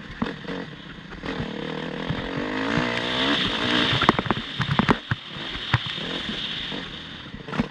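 Motocross bike engine revving up and down, with a series of sharp clicks and knocks a little past the middle.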